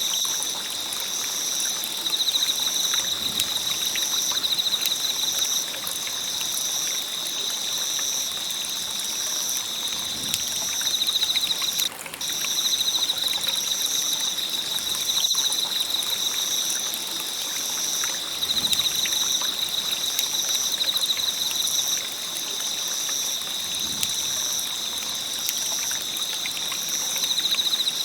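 Wood campfire burning, with a steady hiss and frequent small crackles and pops. A steady high-pitched tone runs over it and drops out briefly about twelve seconds in.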